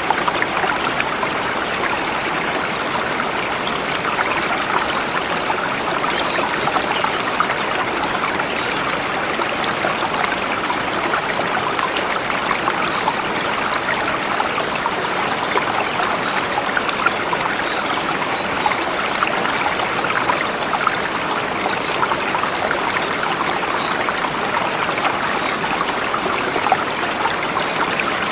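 Forest river flowing steadily over rocks, a constant rushing and trickling of water.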